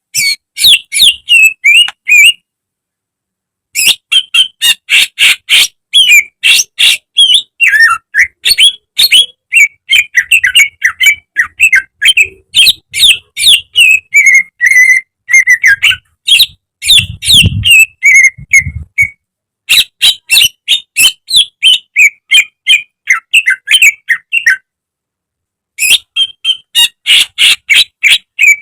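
Cucak ijo (green leafbird) singing loudly: fast strings of sharp, repeated notes in phrases, broken by two short pauses.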